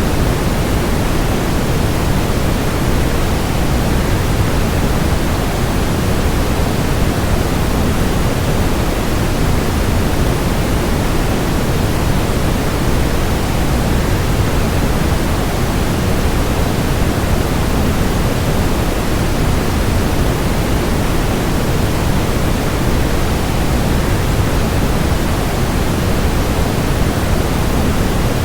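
Waterfall blended with white noise: a steady, even rush, heaviest in the low end, that does not change.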